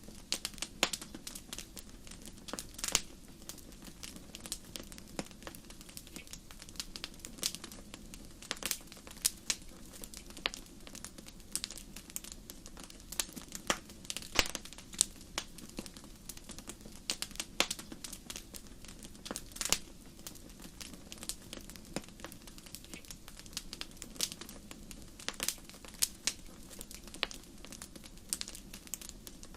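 Wood fire in a fireplace crackling, with frequent irregular sharp pops over a low steady hiss of the flames.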